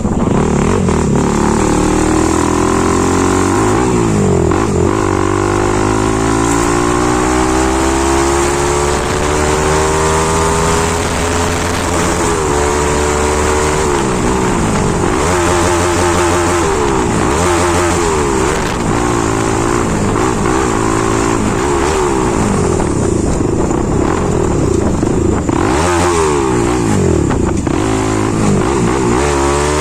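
Bajaj Pulsar NS200's single-cylinder engine through a loud modified exhaust while being ridden: the revs climb steadily over the first ten seconds or so, then rise and drop again and again as the throttle is worked.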